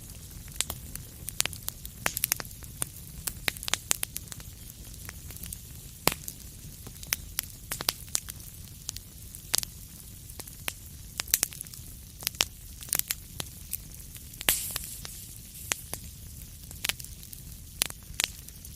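Wood fire in a fireplace crackling, with frequent sharp irregular pops over a steady low rumble. One louder, hissing flare comes about three-quarters of the way through.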